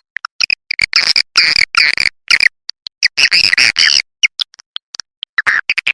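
Swiftlet lure calls: recorded edible-nest swiftlet twittering played back to draw swiftlets into a nest house. It comes as bursts of rapid, buzzy chirping trills separated by short gaps, with a few single chirps between them.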